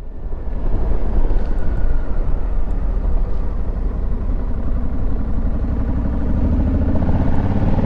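Honda Africa Twin Adventure Sports parallel-twin engine running under way, with heavy wind noise over the microphone; the engine note rises near the end as the bike accelerates.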